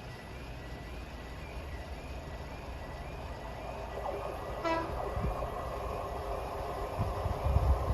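Diesel freight locomotive approaching, its rumble growing from about halfway, with one short horn toot just before that. A level crossing alarm warbles about twice a second, and there are low thumps near the end.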